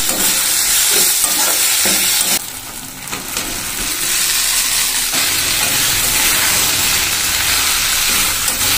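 Tomato-and-spice masala sizzling in hot oil in a metal kadai while a metal spatula scrapes and stirs it. It goes briefly quieter about two and a half seconds in, then fried pointed gourd, potato and prawns go into the pan and sizzle as they are stirred through.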